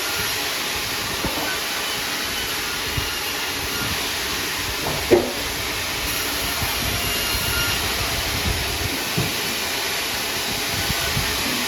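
Sawmill machinery running with a steady hissing noise, with a few light knocks and one sharp knock about five seconds in.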